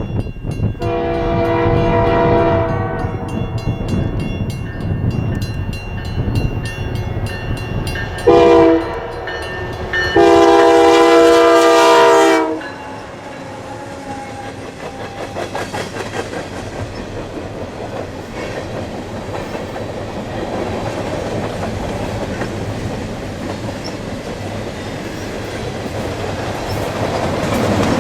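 Air horn of a CP GP20C-ECO diesel locomotive, a multi-note chord, sounding three blasts. The first lasts about two seconds, a short one comes about eight seconds in, and a longer one of about two seconds follows right after. Between and after the blasts the train's engine and wheels run steadily, with rail clatter growing louder near the end.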